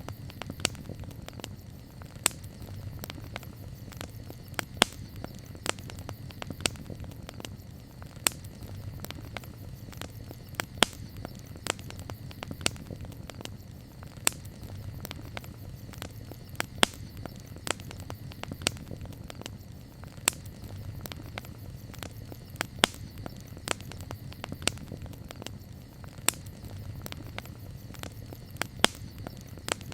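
Wood campfire burning, with irregular sharp crackles and pops several times a second over a low, steady rumble of the flames.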